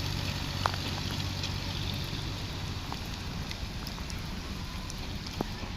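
Steady hiss of heavy rain, with a few sharp taps scattered through it.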